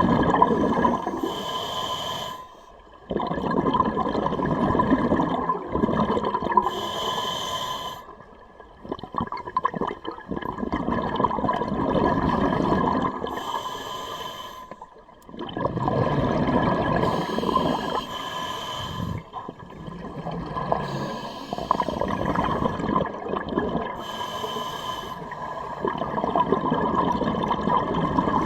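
Scuba diver breathing through a regulator underwater: short hissing inhales about every five seconds, alternating with long rushes of exhaled bubbles.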